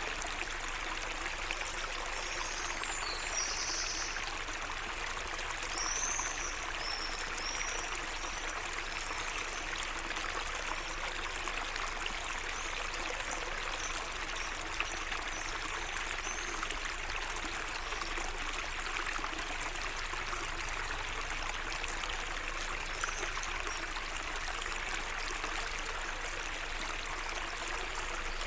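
Water of a small garden waterway flowing and trickling steadily. A few short bird chirps come about three seconds in and again around six to nine seconds.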